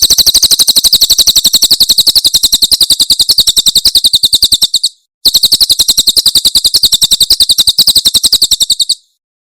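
Cililin bird giving its 'tembakan' call: a fast, even run of high, sharp notes, about ten a second. It comes in two long runs, the first breaking off briefly about five seconds in and the second stopping about a second before the end.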